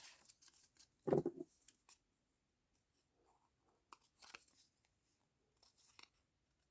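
Paper and cardstock being handled during cardmaking: light rustles and small clicks, with a brief louder rustle about a second in and a quiet gap in the middle.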